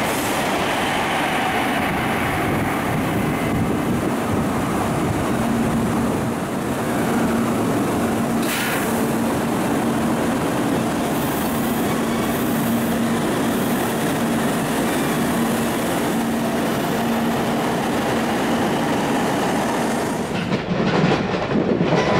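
Shinkansen bullet trains running through a station: an even rushing noise, with a steady hum through the middle. Near the end the sound changes to another train's wheels clattering over rail joints.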